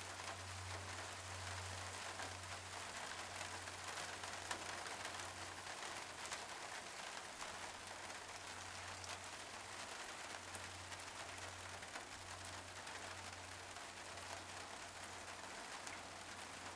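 Steady rainfall, a constant hiss with scattered small drop ticks.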